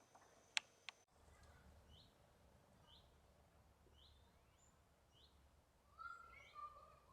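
Faint bird calls: a short falling chirp repeated about once a second, with more varied birdsong joining about six seconds in. Two sharp taps sound in the first second.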